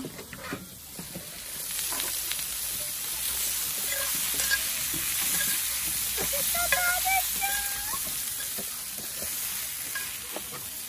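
Freshly fried sausages and vegetables sizzling in a hot black steel pan as they are pushed with tongs into a stainless pan. The sizzle swells about two seconds in and stays steady, with scattered clicks of the tongs against the metal.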